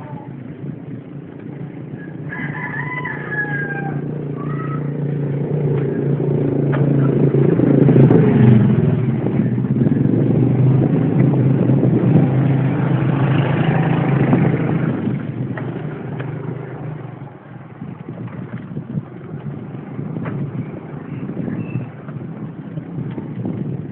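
A rooster crows once about two seconds in. Then a motor vehicle's engine grows louder, stays loud for several seconds and fades away, as if passing by.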